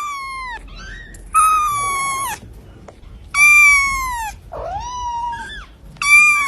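A pet animal giving about five long, high-pitched cries, each about a second long and dropping in pitch at the end, with short pauses between them.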